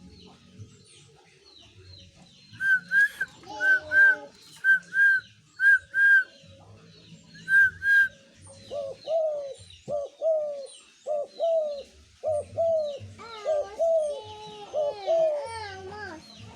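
Pet spotted dove (tekukur) cooing: a quick run of short coos in the second half, each with a slight upward bend. Before them come high, clear, whistle-like notes, mostly in pairs.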